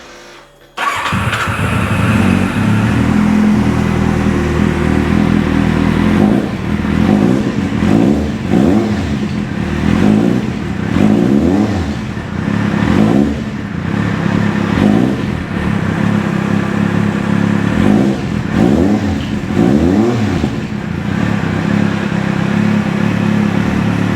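2008 Kawasaki Z750's inline four-cylinder engine starting about a second in and running loud, then revved in a long run of short throttle blips, about one a second, before settling back to idle near the end.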